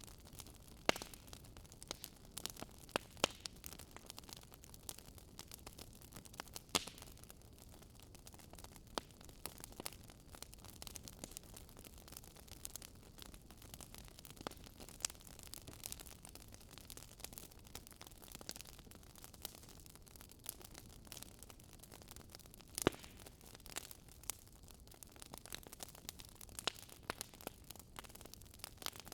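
Wood fire crackling, with irregular sharp pops and snaps over a soft hiss. A few louder pops stand out.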